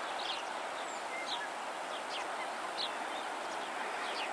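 Small birds chirping, short high falling notes every second or so, over a steady outdoor hiss.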